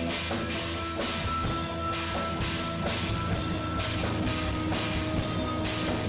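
Live rock band playing a song: drum kit with cymbal and drum hits about twice a second over held chords.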